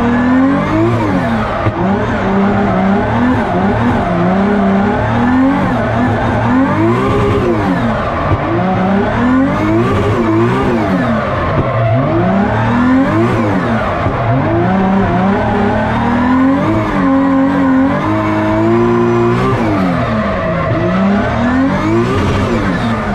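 Drift car's 2JZ-GTE straight-six engine revving under hard driving, its pitch rising and falling over and over every second or two as the throttle is worked on and off.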